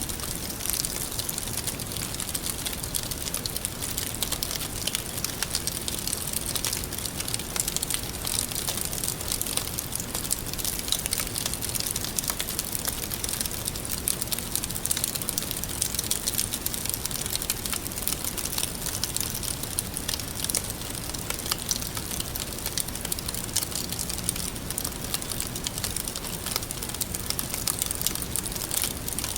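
Wood fire crackling steadily, with a dense run of small pops and snaps.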